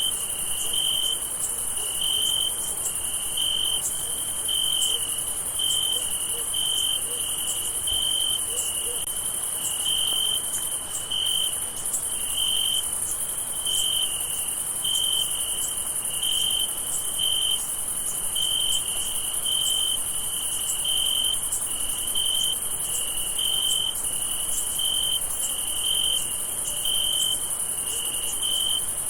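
Night chorus of crickets: short chirps repeating in a steady rhythm, about one to two a second, over a continuous high-pitched insect trill.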